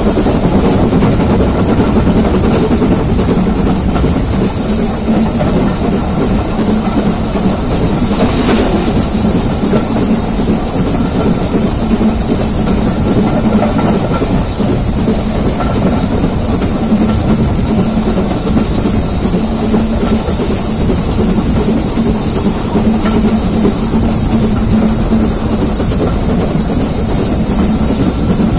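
Heritage passenger train running steadily, a continuous rumble of the carriage wheels on the track, heard from an open carriage window. One sharp click about eight and a half seconds in.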